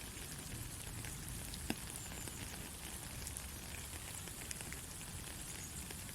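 Steady rain falling, with many individual drops ticking on a surface and one sharper drop about a second and a half in.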